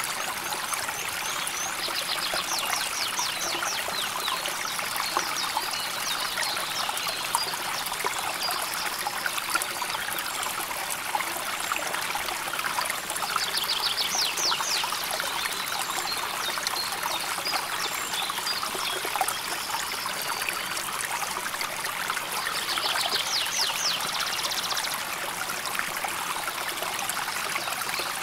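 A river flowing steadily over stones, a continuous rushing and trickling of water. Three times a short, rapid high trill cuts through it.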